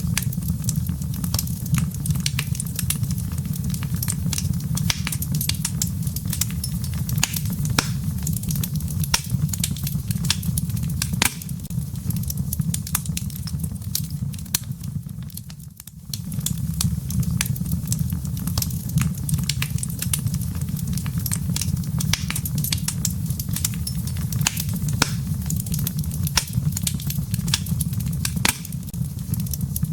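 Wood fire crackling in a fireplace: dense, irregular sharp crackles and pops of burning logs and embers over a steady low rumble of the flames. The sound dips briefly about halfway through.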